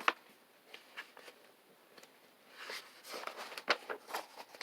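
Quiet handling sounds: a few light taps and clicks, then a soft rustle with more clicks from about two and a half seconds in.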